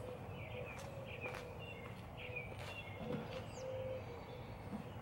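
Faint outdoor ambience with small birds chirping in many short calls, and a few soft taps.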